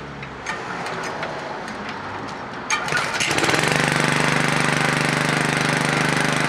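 Small petrol engine of a piece of lawn equipment pull-started, catching on the first pull about three seconds in and then running steadily. Light clicks and handling noise come before the pull.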